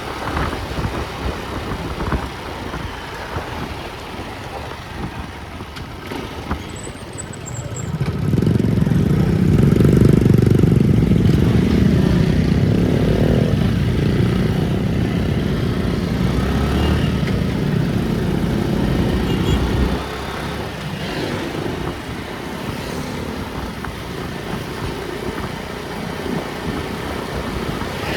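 A road vehicle running, with steady low rumbling road and engine noise. The noise swells much louder about eight seconds in and then drops suddenly about two-thirds of the way through.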